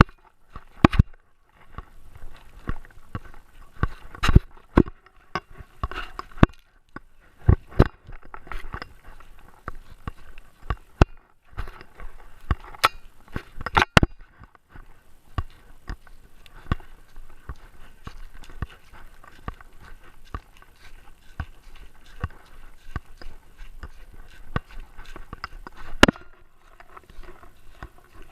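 Irregular knocks, taps and scraping from a GoPro camera mounted on a Great Dane, jostled as the dog moves. There is a denser cluster of sharp knocks about halfway through.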